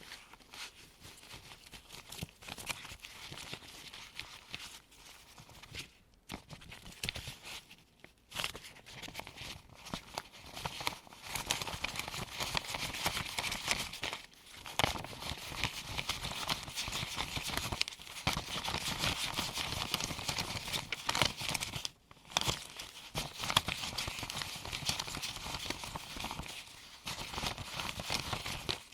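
Crisp rustling, flicking and crinkling of US one-dollar paper bills handled with gloved hands as they are counted from hand to hand. It comes in bouts with brief pauses and grows louder and busier from about eleven seconds in.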